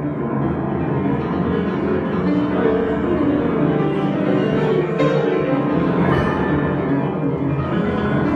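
Improvised instrumental keyboard music: dense, sustained chords with piano-like tones that keep ringing into one another.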